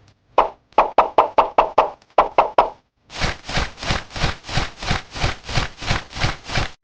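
A quick series of short knocks, then a steady rhythmic scraping of about three strokes a second, like tools being worked by hand.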